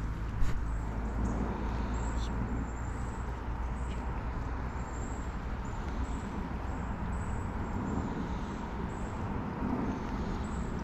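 Steady low outdoor rumble with faint short high chirps repeating about once or twice a second, and a single sharp click about half a second in.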